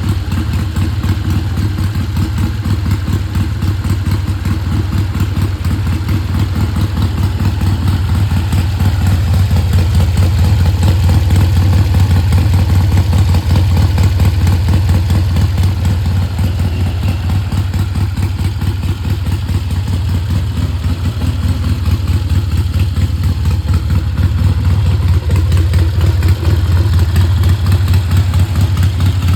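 Custom-built engine idling steadily, with a strong low hum and an even, rapid run of firing pulses.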